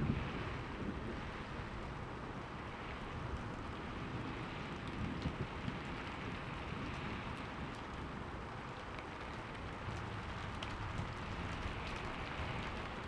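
Steady rain falling, with low rumbles of thunder at the start and again about five seconds in.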